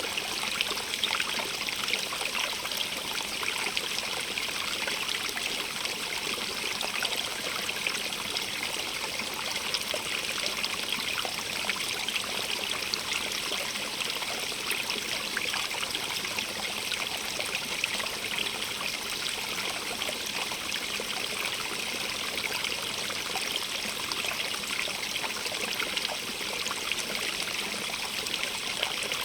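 Small stream running steadily over stones, a continuous bright hiss with fine splashing and trickling.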